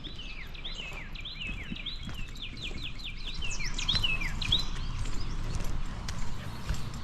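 A songbird singing a fast run of short, falling chirps that stops about two-thirds of the way in, with footsteps on the trail beneath.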